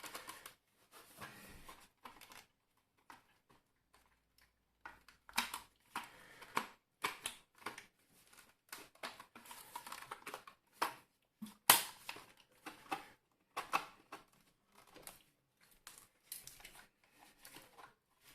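Irregular sharp clicks and knocks as the plastic housing of a Tefal steam iron is handled and pried at during disassembly, with one louder snap about twelve seconds in.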